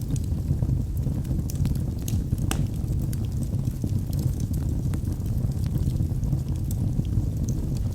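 Wood fire burning in a fireplace: a steady low roar of the flames with frequent sharp crackles and pops from the burning logs, one louder pop about two and a half seconds in.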